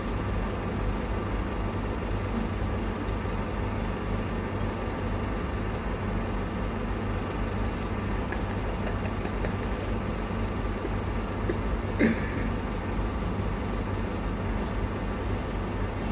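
Steady low background hum, like a fan or air conditioner running, with one short knock about twelve seconds in.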